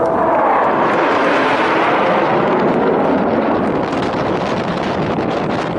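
Thunderbirds F-16 fighter jet passing by with a loud, continuous jet roar; its pitch falls over the first second or two as it goes past.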